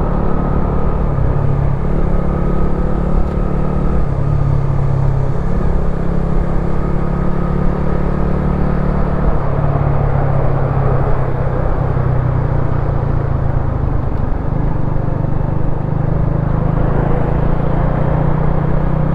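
Wolf Classic 125cc motorcycle engine running steadily while riding, its note stepping to a new pitch a few times as the throttle or gear changes.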